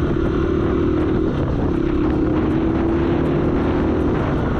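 Motorcycle engine running at a steady cruise, a held hum that dips briefly about a second in and settles again, under a thick rumble of wind on the microphone.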